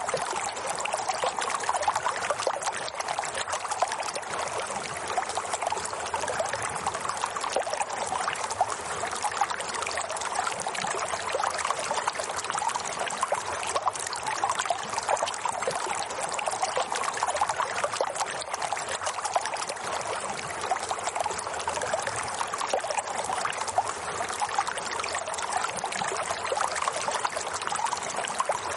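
Water running steadily, a continuous trickling flow with fine splashing detail that never breaks or changes.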